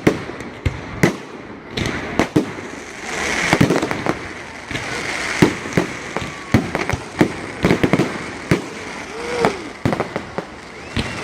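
Fireworks display: a quick, irregular string of sharp bangs from bursting shells, with stretches of crackle between them.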